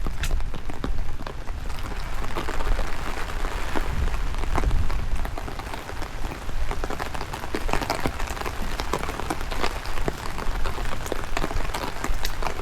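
Rain falling, with many close, sharp drop hits and a low wind rumble on the microphone.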